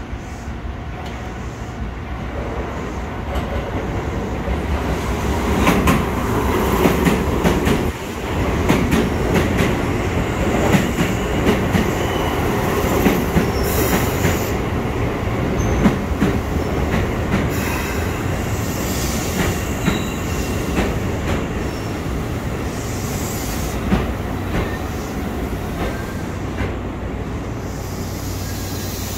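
Keisei Type 3400 electric train pulling into the station: its rumble builds as it approaches, wheels click over the rail joints as the cars run past, and the noise eases as the train slows.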